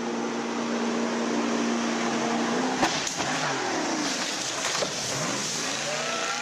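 An engine running at a steady pitch over a rushing noise. A sharp knock about three seconds in, after which the engine's pitch falls away.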